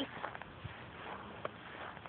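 A few faint clinks of a dog's collar tags jingling, over quiet outdoor background noise.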